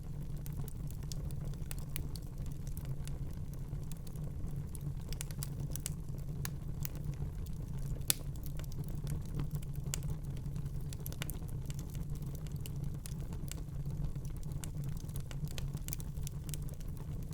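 Wood fire burning in a fireplace: a steady low rumble of flame with irregular crackles and small pops from the burning logs, one sharper pop about eight seconds in.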